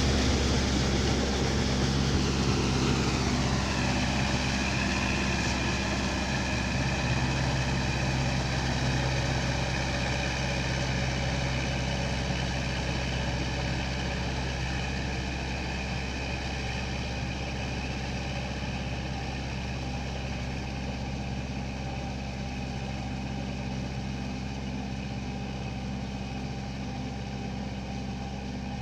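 Four-wheel tractor engine running steadily. A higher whine drops in pitch over the first few seconds and then holds steady, and the sound slowly grows quieter.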